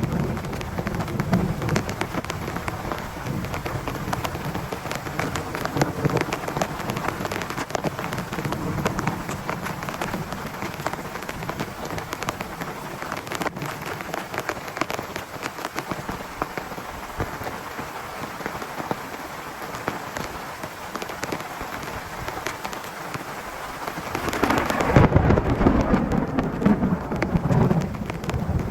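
Heavy rain falling steadily on a tent, many fine drop-strikes blending into a dense hiss, with thunder rumbling low early on. Near the end a louder roll of thunder rises and keeps rumbling.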